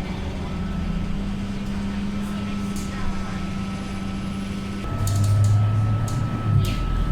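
Scania K230UB bus's diesel engine running steadily; about five seconds in, its note drops to a lower, louder hum.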